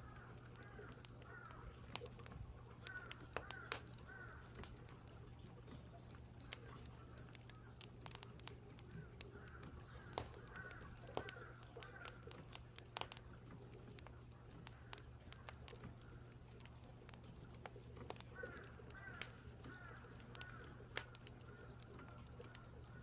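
Crows cawing in several bouts, faint, over scattered sharp clicks of keyboard typing and crackling firewood and a steady low hum.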